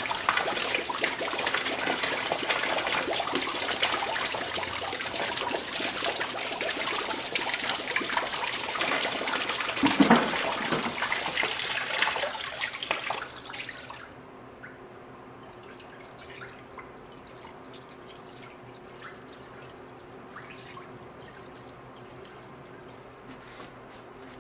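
Liquid running or pouring steadily, then cutting off suddenly about 14 seconds in, leaving only a faint low hum.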